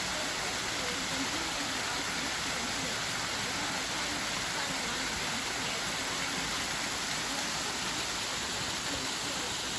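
Waterfall's rushing water: a steady, even hiss at a constant level.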